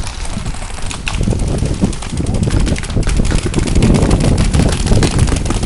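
Loud, dense rustling, knocking and low rumble from handling noise against a paintball player's gear-mounted camera as the player moves, growing heavier about a second in.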